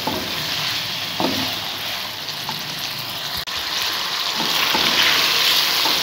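Chicken pieces and boiled peas sizzling as they fry in ghee in a metal pan, with no water added. A slotted spatula stirs them, giving a few scrapes against the pan over the steady hiss.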